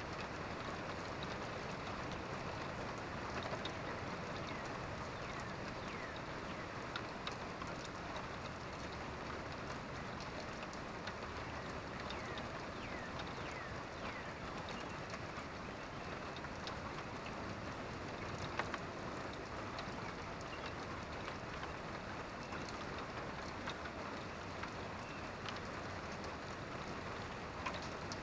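Steady rain falling, with many scattered drips ticking on a surface and a few sharper drops now and then.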